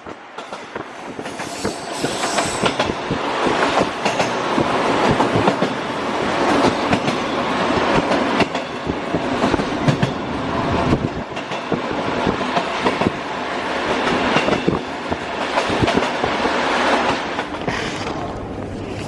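Train running along the track, its wheels clattering over the rail joints amid steady rattling and many sharp clicks and knocks.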